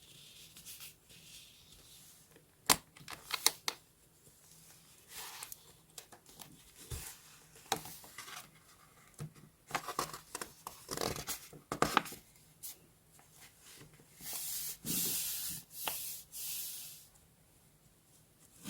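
Paper and stationery handled close to the microphone: a series of sharp clicks and taps with short bursts of scratchy paper noise, then a few seconds of continuous paper rubbing or tearing about three-quarters of the way through.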